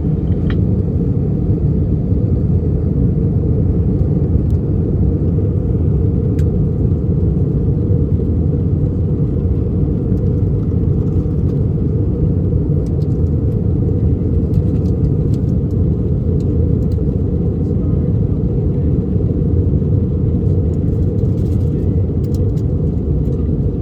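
Steady low rumble inside the cabin of an Airbus A319 airliner in descent: engine and airflow noise, unchanging in level.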